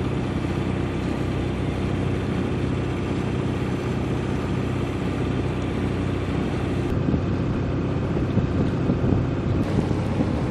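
Boat engine running steadily under way, with wind on the microphone.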